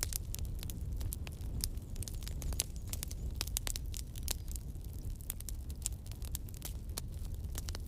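Campfire burning: irregular sharp crackles and pops of burning wood over a steady low rumble of the flames.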